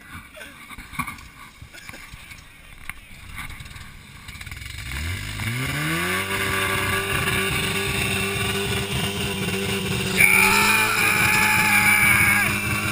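A 4x4 SUV's engine revs up sharply about five seconds in and is then held at steady high revs. It gets louder again at around ten seconds.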